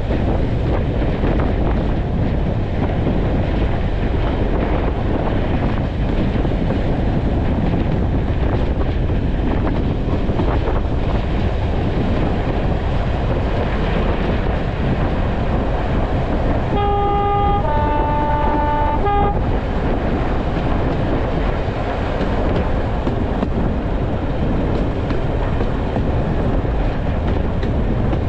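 Heritage train running along the line, a steady rush of wind and wheel-on-rail noise at an open carriage window. A little past halfway the diesel locomotive's two-tone horn sounds for about two and a half seconds, stepping between its two notes and back.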